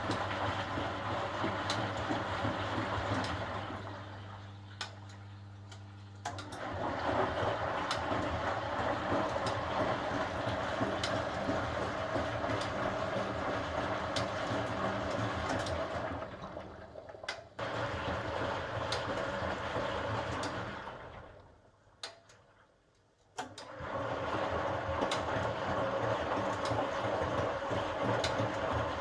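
1980 HUWA Automatic Standard 4 washing machine running, its motor and drum turning with a steady noise. The noise drops away three times, the longest and quietest a little past the middle, and starts again each time, like the drum pausing between turns during a wash or rinse.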